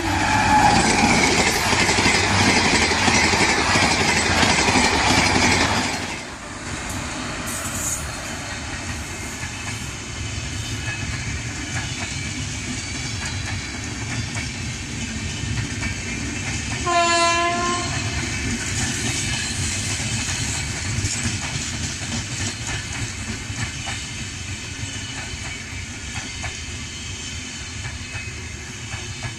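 For about the first six seconds a loud, steady title sound plays. Then a passenger train's coaches roll past with a steady rumble and rail clatter, and about 17 seconds in a train horn sounds once, briefly.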